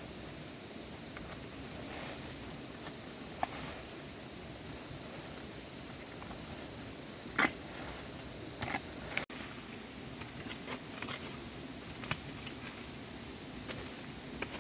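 A steady, high-pitched insect drone, with a few sharp clicks or knocks over it, the loudest about seven seconds in and a short cluster just after.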